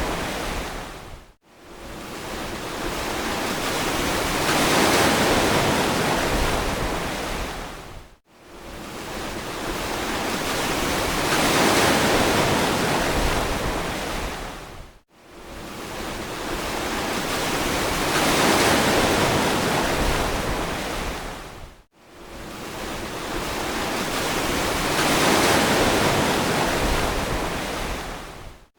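Ocean waves washing onto a beach, swelling and receding about every seven seconds, four times. Each wash ends in a brief, sudden drop to near silence before the next begins, as in a repeated recording.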